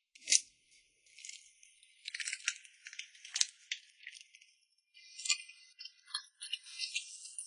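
A string of sharp clicks, taps and crinkly rustles, the loudest a single click just after the start, with another cluster about two to three and a half seconds in and more from about five seconds in.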